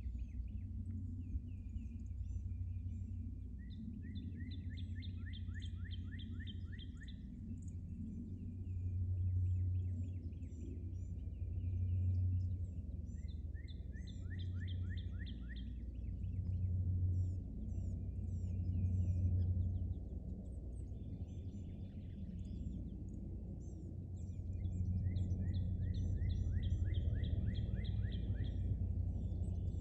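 Low rumble of distant Airbus A330 airliners taking off, swelling and fading every few seconds and strongest near the end. A songbird sings three phrases of quick repeated trilled notes over it.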